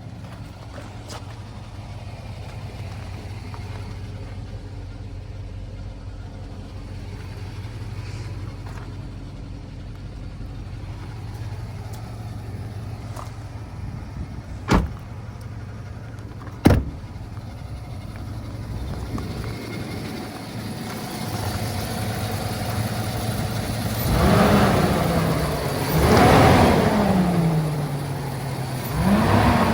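2016 Ford F350 pickup's engine idling steadily, with two sharp knocks in the middle, then revved three times near the end, the pitch rising and falling each time.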